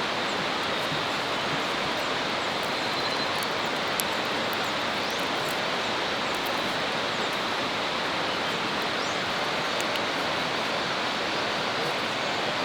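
Steady, even outdoor rushing noise with no changes, broken only by a few faint ticks, one about four seconds in.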